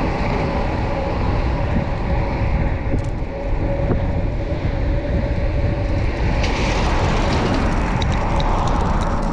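Motorcycle engine running steadily under way, mixed with rushing wind noise from riding, with a steady hum held through and a brighter hiss coming in about two-thirds of the way through.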